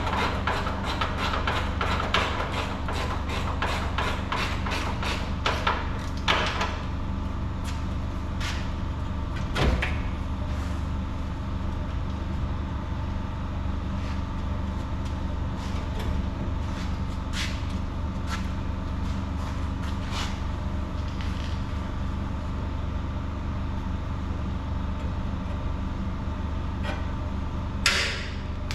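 Hand tools working on truck body parts. Rapid ratchet-like clicking fills the first six seconds, then a few separate metal clanks and knocks, the loudest near the end, over a steady low machine hum.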